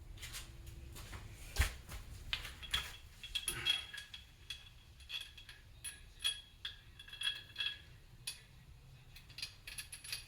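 Small metal parts and tools clinking and clattering as they are picked up and set down. There are many irregular knocks with short bright rings, the sharpest about one and a half seconds in.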